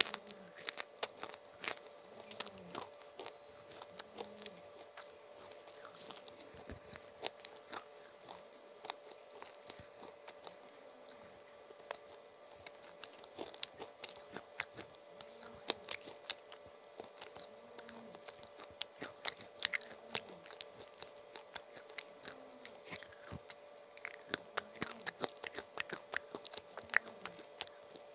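Close-miked chewing of hard baked-clay (mitti) cookies and slate pencils, with many sharp crunches coming several times a second.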